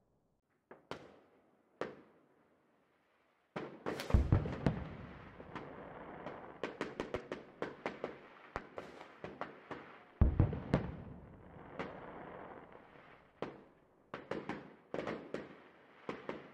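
Fireworks going off: two lone bangs, a short silent gap, then from about three and a half seconds in a dense run of crackling reports and pops. Deep booms come about four and ten seconds in, and more bursts follow toward the end.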